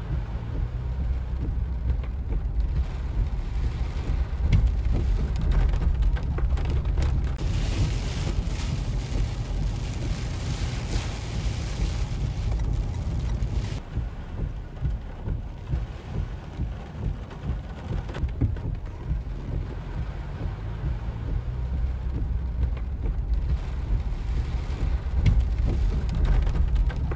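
Hurricane rain and wind heard from inside a car's cabin: a heavy, uneven low rumble with rain hissing on the roof and windshield. From about 7 to 14 seconds in, a louder hiss swells over it as the rain comes down harder.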